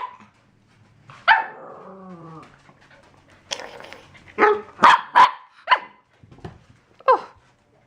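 Pembroke Welsh Corgi puppy barking in a series of short, high yaps, one about a second in and most of the rest bunched together in the second half.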